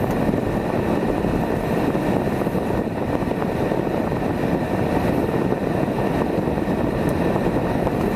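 Steady cabin noise of a car being driven: an even rumble of engine and tyres on the road, with no distinct events.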